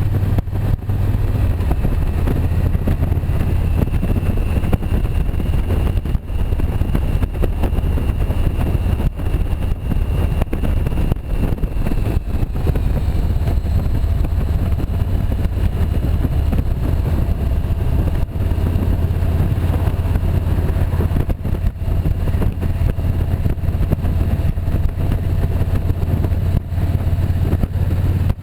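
Motorcycle running at riding speed, a steady low rumble of engine and road noise.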